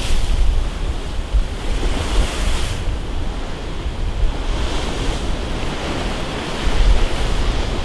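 Stormy sea waves surging and breaking every few seconds under strong wind, with wind buffeting the microphone in a heavy low rumble.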